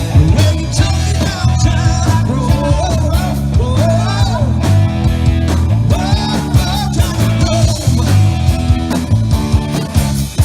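Rock music: a full band with a steady drum beat under a melody line that bends and glides between notes.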